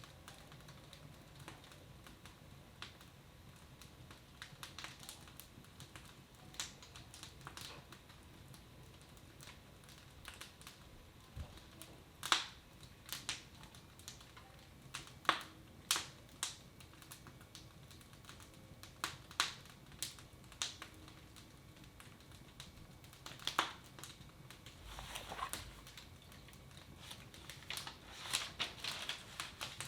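Wood fire crackling in a fireplace: scattered sharp pops and snaps at irregular intervals, a few louder ones, growing busier near the end.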